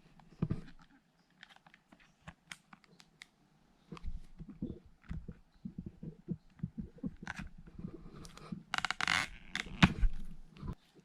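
Hands handling a smartphone and its packaging and accessories: a run of small taps, clicks and scrapes, with a brief tearing sound about nine seconds in.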